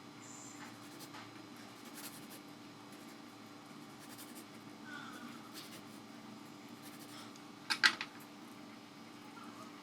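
Kitchen knife slicing thinly into a raw potato: faint, scattered cutting and scraping sounds, with a sharper double click near the end.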